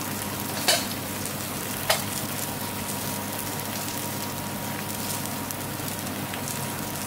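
Chopped onion, garlic and bay leaves frying in ghee in a pan, with a steady sizzling hiss. Two sharp clicks come about a second apart near the start.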